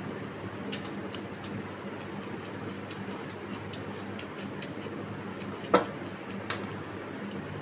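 Close-miked chewing, with wet mouth clicks and smacks scattered irregularly over a steady background hum. A sharper click comes a little before six seconds in.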